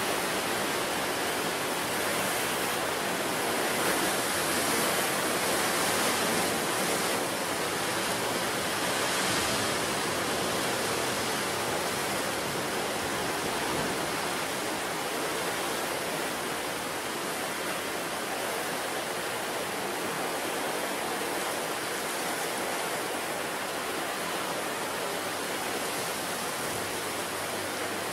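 Ocean surf on a rocky wild coast: a steady, dense rushing of waves washing in, swelling a little in the first few seconds.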